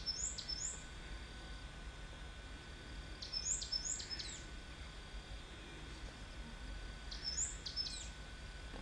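A bird calling: three short phrases of high, sharp notes, each ending in quick upward-sweeping whistles, about three to four seconds apart, over a steady background hiss.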